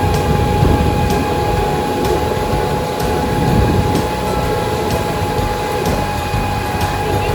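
A tour boat's engine running steadily: a low rumble with a constant whine over it, mixed with wind and water noise.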